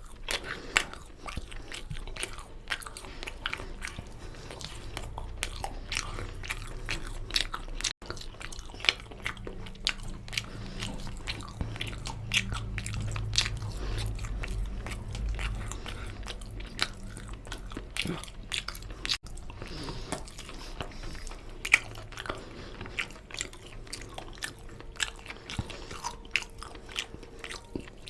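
Close-miked eating of mutton curry and rice: steady chewing and mouth noises, made up of many quick, irregular sharp clicks.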